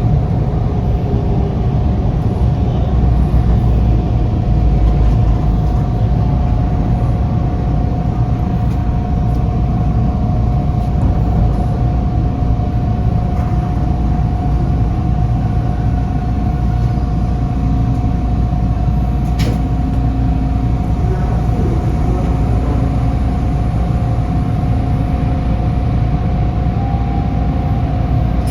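Interior noise of a Toronto subway train: a steady, loud low rumble with a steady tone running through it, and one sharp click about two-thirds of the way through.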